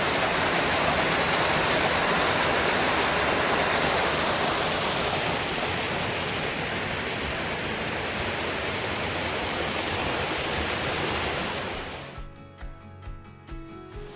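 Steady rush of water pouring over small waterfalls and cascades in a rocky creek, easing a little partway through. About twelve seconds in, the water sound cuts off and a couple of seconds of pulsing musical tones follow.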